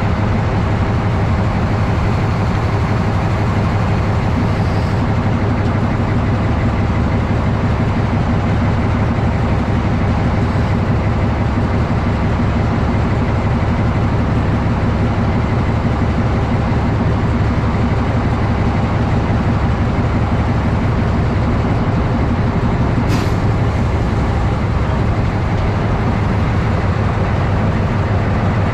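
Narrow-gauge diesel locomotive running steadily, a continuous low engine drone, with one sharp click about 23 seconds in.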